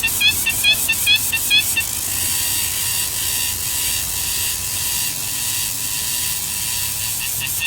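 Woodpecker nestlings calling from the nest: quick, short rising chirps about five a second. About two seconds in, the chirps give way to a steady high hiss for about five seconds, and they return near the end.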